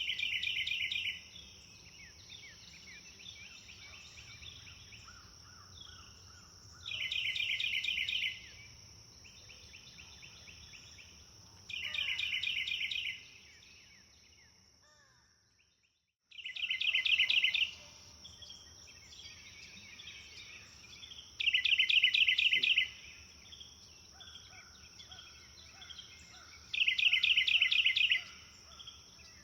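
Birdsong ambience. One bird repeats a loud, fast trilled phrase of just over a second, about every five seconds, with quieter chirps and calls from other birds between. A steady high tone runs underneath. About halfway through, everything fades out to silence for a moment and then comes back at once.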